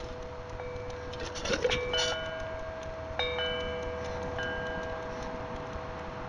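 Grackles calling: sharp squeaky calls about one and a half and two seconds in, and again just past three seconds, over a steady chime-like ringing of held tones.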